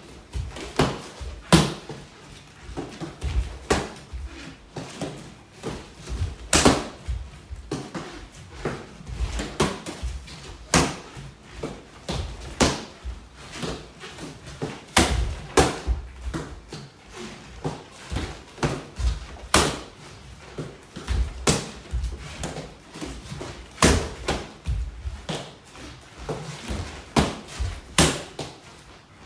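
Punches and kicks smacking into a held karate striking mitt: a lead punch, a lead lower punch and a roundhouse kick, repeated again and again as sharp hits, often in clusters of two or three.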